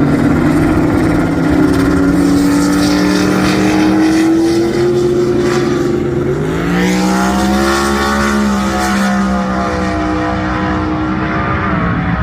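Car engine under load, its pitch climbing slowly, then rising sharply about six and a half seconds in and easing off again near the end.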